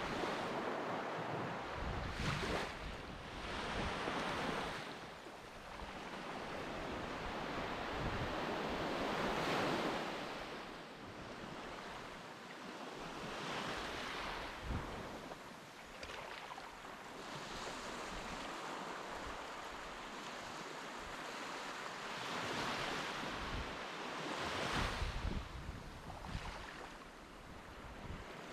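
Sea surf washing onto a beach, the noise swelling and falling away every few seconds, with wind buffeting the microphone.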